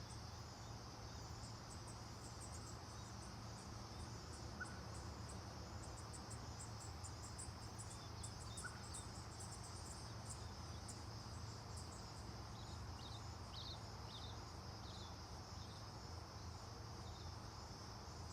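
Insects trilling: a faint, steady high buzz with a rapid run of repeating chirps over it, and a few short lower chirps in the second half.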